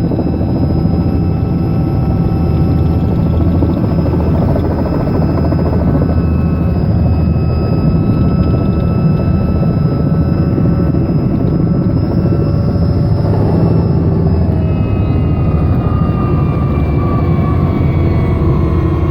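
Robinson R66 helicopter's Rolls-Royce RR300 turbine and rotors running steadily with a dense low rumble and a high whine. From about twelve seconds in, the whine slowly falls in pitch.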